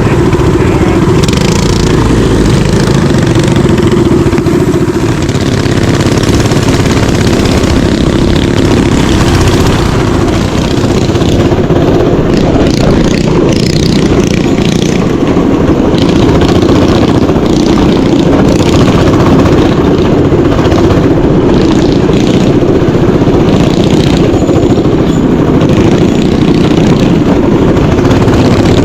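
Mini bike engine running loud and steady while being ridden.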